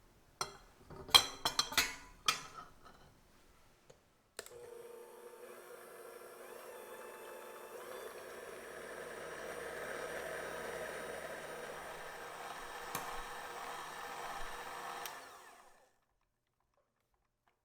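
A few sharp clinks, then a small electric kitchen appliance motor starts suddenly and runs steadily for about eleven seconds before winding down.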